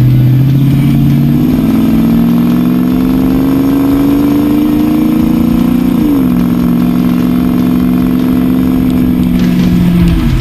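Jeep Grand Cherokee's 5.2 Magnum V8 running through a Magnaflow dual exhaust under acceleration: the engine note jumps up about a second in, climbs steadily, drops sharply about six seconds in as at a gear change, then holds steady before falling away near the end.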